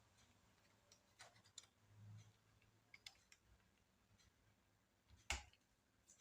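Faint, scattered small clicks and taps of laptop parts and tools being handled during disassembly, with one sharper click about five seconds in.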